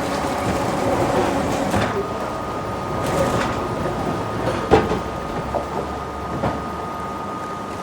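Woodworking factory machinery handling rubberwood logs, running with a steady mechanical din. A thin steady whine starts about two seconds in, and a few sharp knocks come near the middle.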